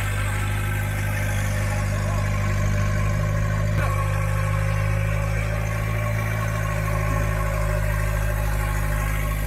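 Off-road 4x4's engine idling steadily, with no revving.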